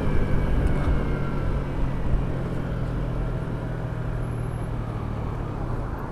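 Motorcycle engine running at low, steady revs, with wind and road noise rushing over the microphone; the sound slowly grows quieter.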